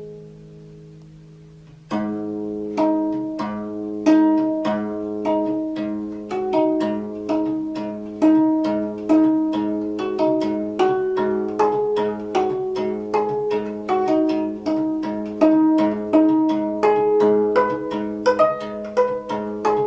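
Gayageum, the Korean plucked zither, playing a steady run of plucked notes that ring and fade, starting about two seconds in after a soft, fading tone.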